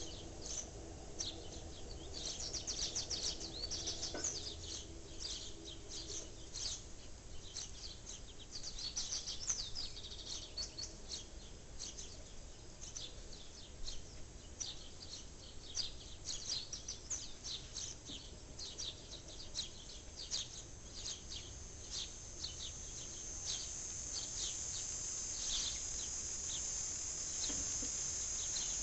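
Small songbirds chirping repeatedly over a low background rumble. A steady high-pitched drone joins near the end.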